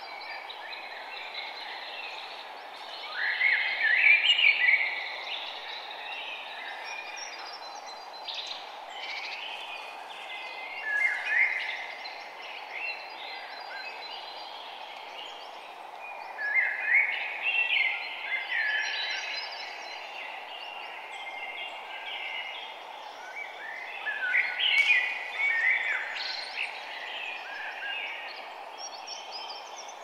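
Songbirds singing in bursts of quick chirps and trills every few seconds, over a steady soft background noise.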